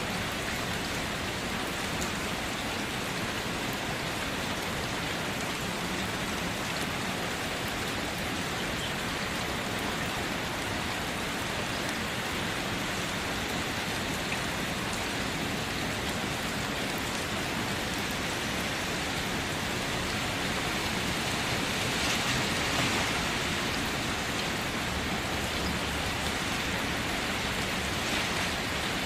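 Steady rain falling, an even hiss of many drops that swells a little about two-thirds of the way through.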